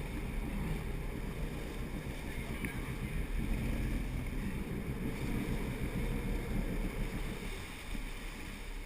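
Steady low rumble and wash aboard a sport-fishing boat: the boat's motor running, with water and wind buffeting the microphone.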